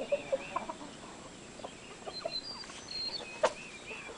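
Chickens clucking in short, scattered calls, mixed with repeated short high calls. A single sharp click about three and a half seconds in is the loudest sound.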